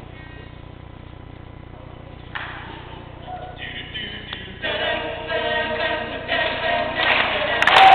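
Male a cappella group singing live without instruments. The voices start soft and sparse, then build into fuller, louder chords from about halfway through.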